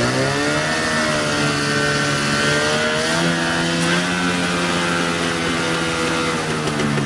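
Small engine running at high revs. Its pitch climbs about half a second in, rises a little again around three seconds, then holds steady.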